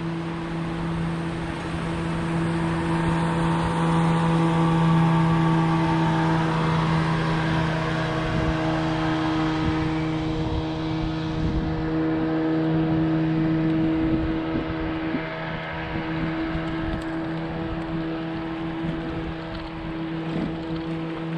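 Boat motor running at a steady pitch while the boat is underway.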